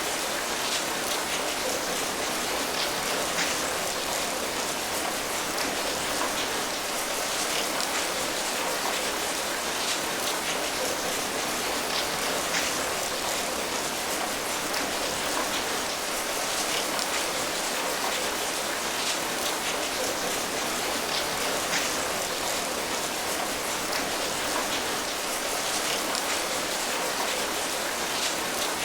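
Steady rain falling, an even hiss of rainfall with many distinct drops pattering on a surface.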